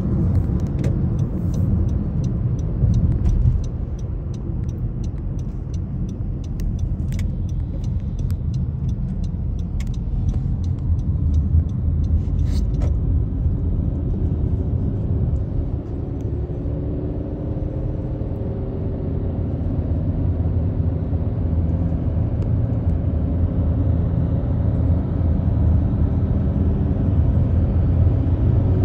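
A car driving: a steady low rumble of road and engine noise, with scattered sharp clicks through the first half and an engine tone slowly rising in pitch in the second half as it speeds up.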